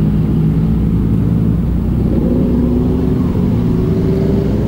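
Motorcycle engine running while riding. About halfway through its pitch begins a slow steady rise as the bike accelerates.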